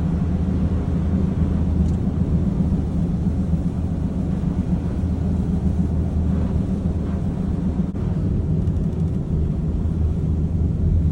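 Truck driving along a snow- and ice-covered road: a steady low engine and road rumble that holds even throughout.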